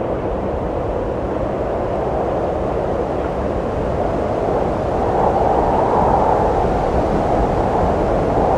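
Wind blowing steadily, a rushing noise that swells into a stronger gust about five seconds in.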